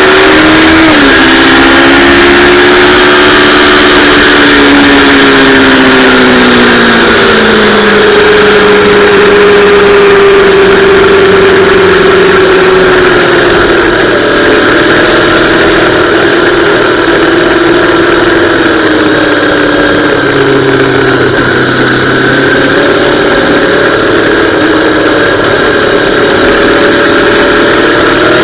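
Yamaha R3's parallel-twin engine running, its pitch falling over the first several seconds, then holding and drifting slowly down and back up.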